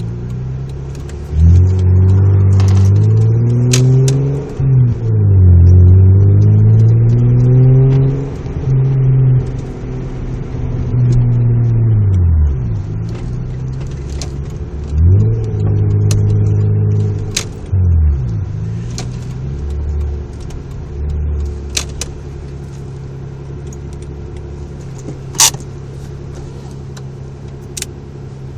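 Mazda MX-3 GS's 1.8-litre K8 V6 heard from inside the cabin through a 2¼-inch exhaust with a test pipe and a Magnaflow Street Series muffler. The engine revs up and drops back several times, then settles to a steady drone. A sharp click comes late on.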